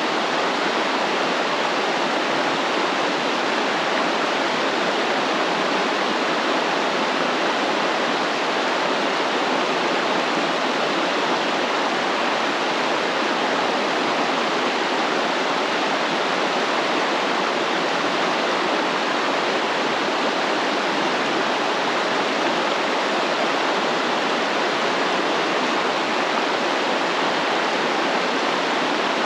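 Steadily flowing stream water: a constant, even rush with no change in level.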